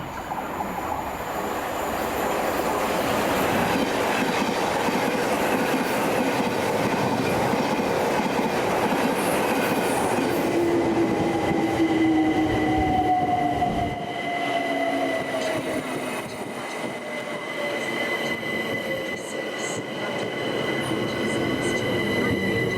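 Electric multiple-unit passenger train running into the platform: a loud wheel-and-rail rumble builds, then, about halfway through, a whine falls in pitch as the train slows under braking. A steady high tone holds through the second half.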